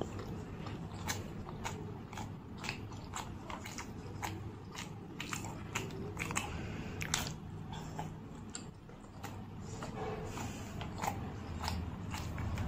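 A person chewing a mouthful of steamed momos, with frequent wet mouth clicks and smacks about once or twice a second.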